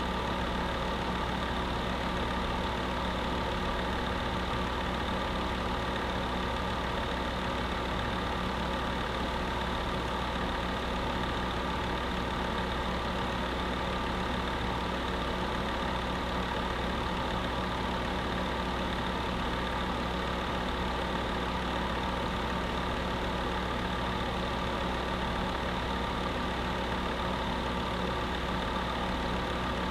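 Electric space heater running steadily: a constant motor hum under an even rush of fan air, unchanging throughout.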